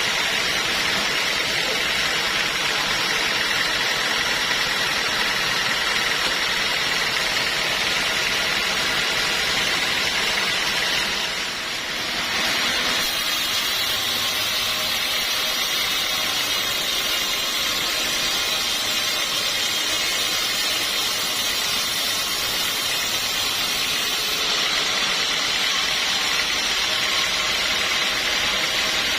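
Sawmill saw running steadily with a high, even whine, dipping briefly about eleven seconds in before carrying on.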